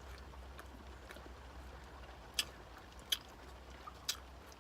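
Quiet mouth sounds of a person chewing a sauce-glazed chicken strip, with three short sharp clicks in the second half.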